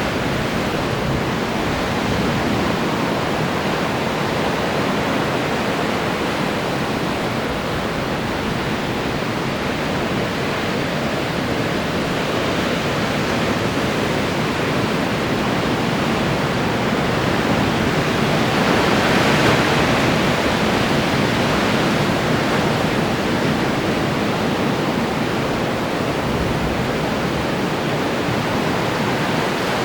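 Ocean surf breaking on the shore, a continuous wash of waves that swells louder for a few seconds past the middle as a larger wave breaks.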